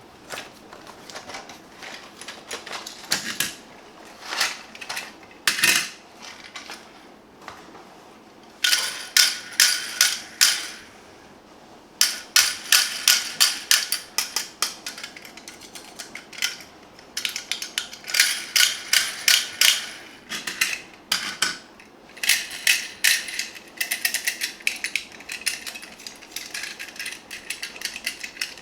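Small plastic toy mechanism clicking rapidly in runs of several seconds, like a ratchet or gears, with a few separate knocks of toys being handled before the clicking starts.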